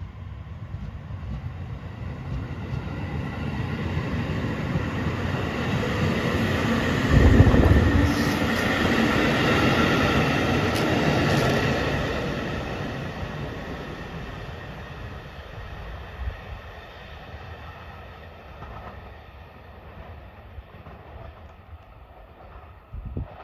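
JR Hokkaido 721 series electric train running past close by, its wheels rolling over the rails. The noise builds to a peak between about seven and eleven seconds in, with a heavy low thump at about seven seconds, then fades as the train moves away.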